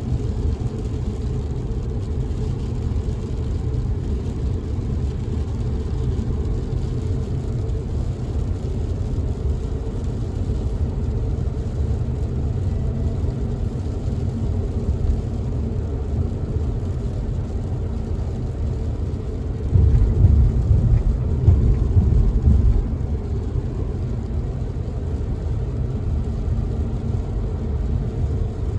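Steady low road and engine rumble heard inside a car driving in the rain. The rumble swells louder for about two seconds roughly two-thirds of the way through.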